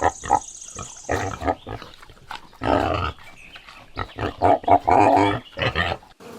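Domestic pig grunting and squealing in a series of short, irregular calls, two of them longer and louder than the rest.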